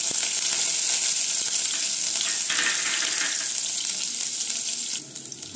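Chopped green chillies sizzling in hot oil: a steady, hissing fry that drops away sharply about five seconds in.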